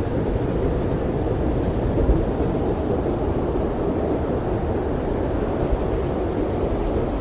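Blizzard wind blowing steadily, a low, even rush of noise without gusts or breaks.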